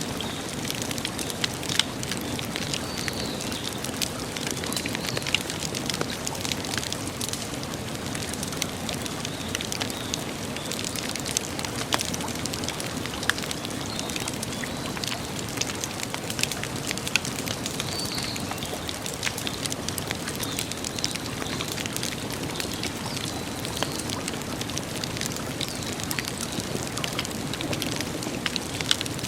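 Wood campfire burning, with a constant scatter of small crackles and pops over a steady rushing hiss.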